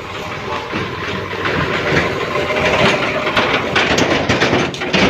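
Diesel tractor engine running hard under load, with a run of knocks and rattles in the second half, as of a loaded trolley clattering behind it.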